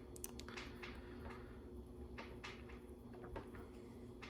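Faint, irregular clicks and light rattles of small plastic LEGO pieces being handled and pressed into place, over a faint steady hum.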